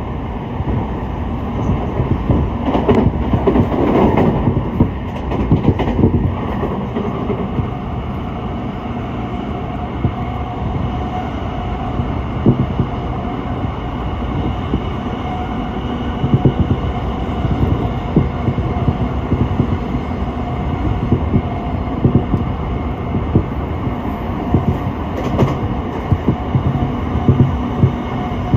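Running noise of an electric train heard from on board while it is moving: a steady rumble of wheels on rail with scattered clacks over joints and a faint steady hum.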